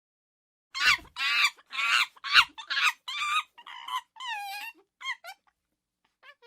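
An animal sound effect: a run of about ten short, high, squeaky calls with wavering pitch, one after another, fading to faint chirps near the end.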